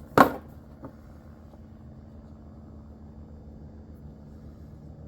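A sharp knock about a quarter second in and a lighter tap just under a second in, over a steady low hum.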